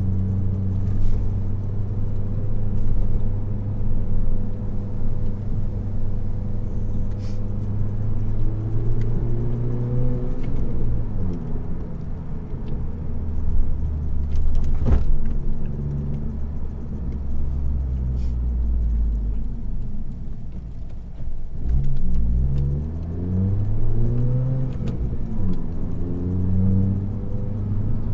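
Exhaust of a 1.5-litre turbo four-cylinder Honda Accord with the resonator and muffler deleted, heard from inside the closed cabin while driving: a steady low drone that rises in pitch under acceleration and drops back at gear changes several times.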